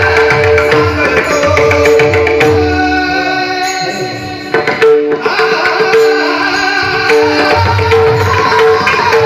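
Devotional music: pakhawaj drumming with repeated deep bass strokes over a steady held drone. The drum drops out for about two seconds in the middle while a sustained note carries on, then comes back in with a loud stroke.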